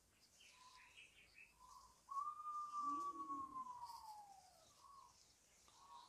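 A bird gives one long clear whistle that starts suddenly about two seconds in and slowly falls in pitch, among shorter soft whistled notes and faint high chirps.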